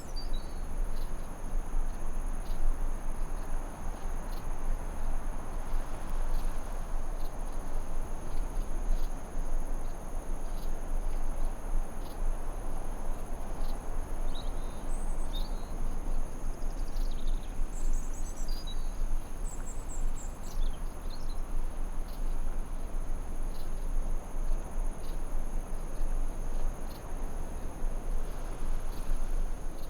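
Forest ambience: a steady, high-pitched insect drone held on two tones over an even hiss. Short bird chirps come now and then, most of them around the middle.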